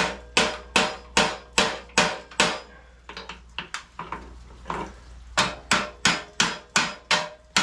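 Repeated hammer blows, about two and a half a second, driving the mini chopper's steering stem down out of its head bearings. Midway the blows give way to a few lighter, irregular taps, then the steady hammering resumes slightly faster.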